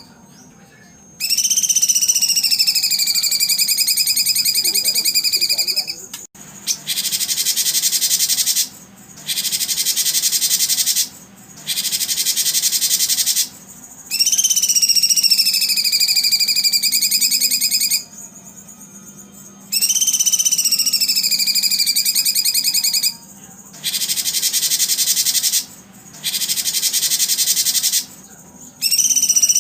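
A songbird singing long, rapidly trilled phrases of several seconds each with short pauses between, some as a fluttering, slightly falling whistle-trill and others as a dense buzzy rattle, with a single click about six seconds in.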